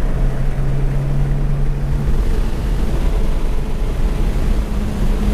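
Honda Civic Si's K20Z3 four-cylinder engine running on track, heard inside the cabin over steady road and wind noise. Its steady note falls away about two seconds in, and a higher steady engine note comes back later.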